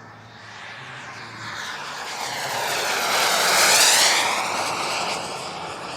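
Gas-turbine engine of a large-scale Elite Aerosports Havoc RC jet making a fly-past. The rushing whine builds to a peak just under four seconds in, drops in pitch as the jet passes, and fades away.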